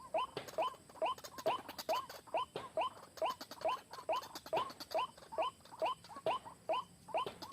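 White-breasted waterhen calling: a fast, unbroken run of short, sharply rising croaking notes, about three a second.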